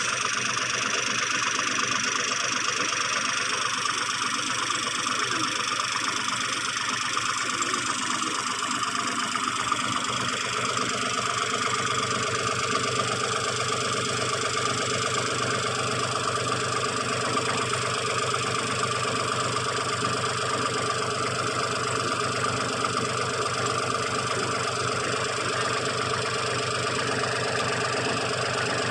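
Heavy machine's engine running steadily, its tone shifting slightly about ten seconds in.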